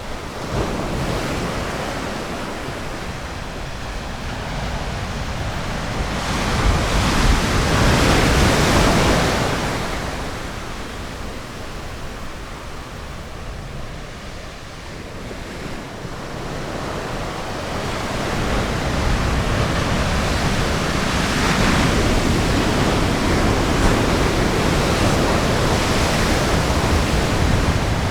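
Ocean surf washing onto a beach: an even rush of waves that swells to a louder break about seven seconds in, eases off, then builds again and stays up near the end.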